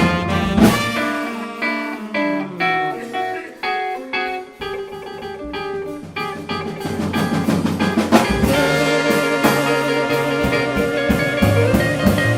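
Small jazz group playing a blues: a guitar takes single-note lines over bass and drums, and the sound grows fuller and louder from about eight seconds in.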